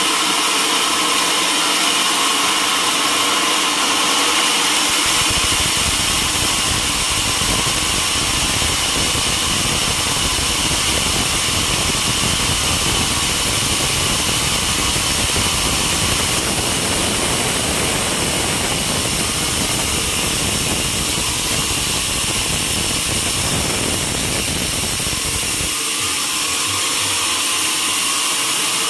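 Sawmill running steadily with a high whine, its blade cutting through a mahogany log. The sound grows deeper and heavier from about five seconds in and lightens again near the end.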